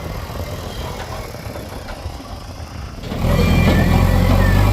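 Heavy diesel machinery engine running, jumping suddenly much louder about three seconds in to a steady deep hum.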